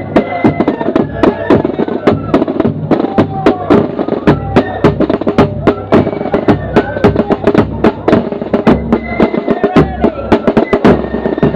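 Corps of drums playing a march: close, rapid snare drum strokes and rolls with bass drum, under a flute tune.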